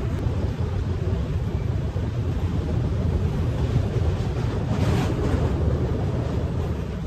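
Train rumbling steadily across a steel truss bridge, heard from a moving coach, with wind buffeting the microphone held outside.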